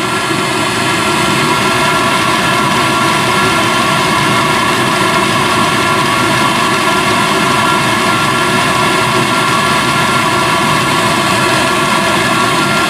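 Diesel air heater running with its blower fan going: a steady whine of several held tones over a rushing of air, growing slightly louder in the first second or so, then holding.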